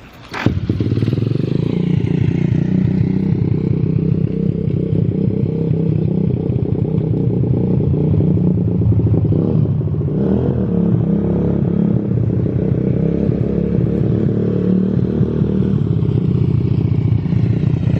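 A 125cc four-stroke pit bike engine catches on a push start about half a second in, then runs steadily. It is a cold start after the bike has sat unused for almost half a year.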